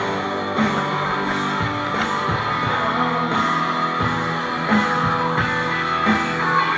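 Rock band playing: guitar over a steady drum beat.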